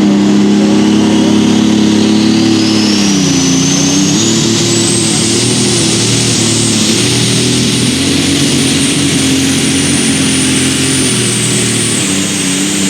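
Turbocharged diesel engine of a light super stock pulling tractor running flat out under load. Its deep engine note dips about three seconds in and then wavers. A high turbo whine climbs over the first few seconds and then holds.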